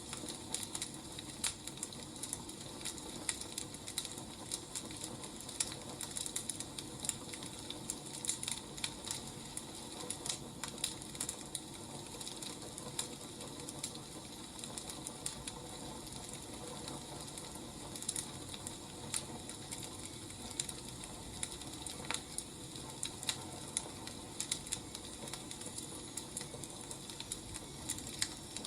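Wood fire crackling: irregular snaps and pops over a steady low hiss.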